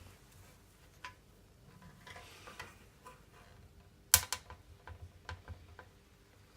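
Scattered clicks and taps of dent-repair tools being handled, with a sharp, loud cluster of clicks just after four seconds and several smaller clicks following.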